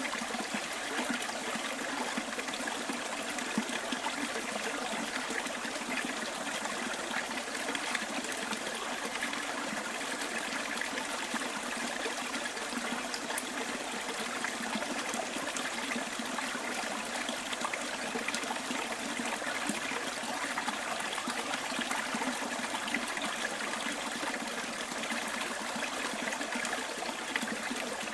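Stream water running steadily in the bush, an even, unbroken rush of flowing water.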